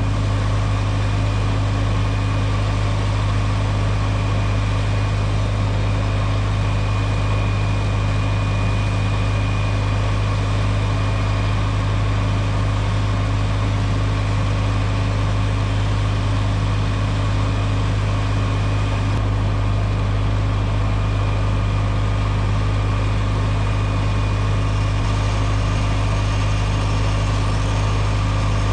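Tractor engine running at a steady speed with a constant low hum, driving a manure pit agitator that is stirring the pit.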